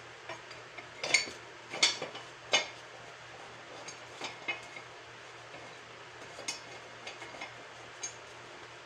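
Metal clanks and clinks as a steel lawnmower blade and its mounting hardware are handled and fitted onto the mower's underside: three sharp knocks in the first three seconds, then scattered lighter clicks.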